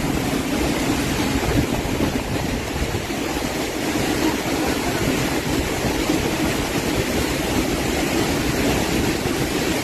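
Heavy storm rain and wind, a loud steady rushing noise without a break.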